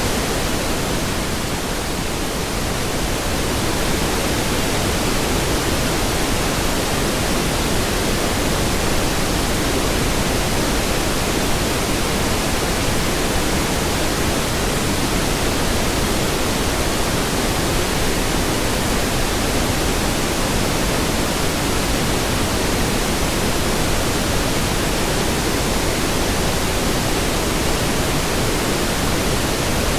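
Steady synthesized pink noise: an even hiss spread across all pitches, dipping slightly in level about two seconds in.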